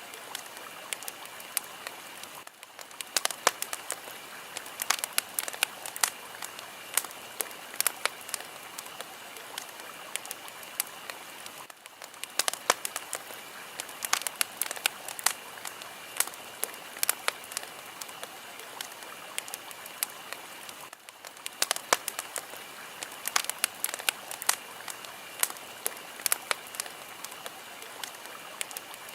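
Fire crackling: a steady hiss with frequent sharp, irregular pops and snaps, dipping briefly about every nine seconds.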